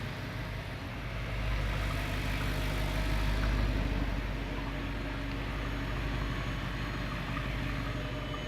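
Audi R8 engine idling steadily, warming up on fresh oil after an oil change.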